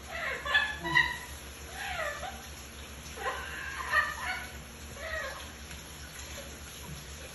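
Parrot calling in several short bursts of pitched squawks over the first five seconds, then quieter.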